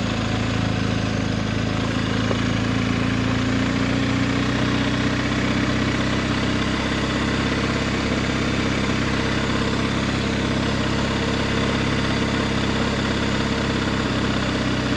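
Adventure motorcycle engine running steadily at low speed, its pitch rising slightly a few seconds in and then holding.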